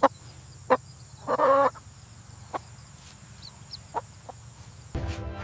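Chicken clucking: a few short, sharp clucks and one longer cluck about a second and a half in, over a steady low hum.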